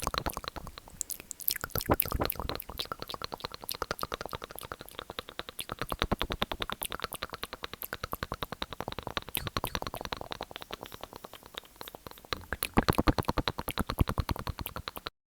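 Rapid wet mouth sounds: tongue and lip clicks at about ten a second, louder at the start and again about thirteen seconds in, stopping abruptly near the end.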